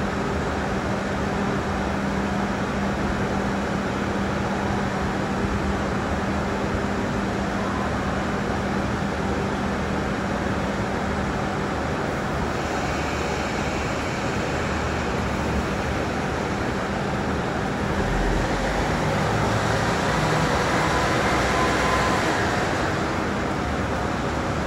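Electric train at a station platform: a steady low hum from the train standing at the platform, with a hiss starting about halfway through. Near the end the noise swells, with a faint rising whine as the train moves off.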